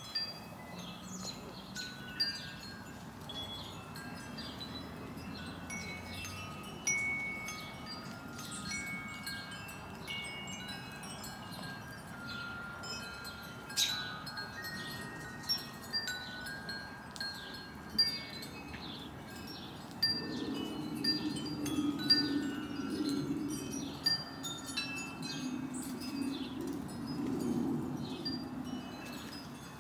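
Wind chimes ringing irregularly in the breeze, single notes at several different pitches sounding and dying away. About two-thirds of the way through, a low rumble joins in.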